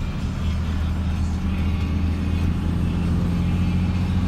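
Car driving: a steady low drone of engine and road noise.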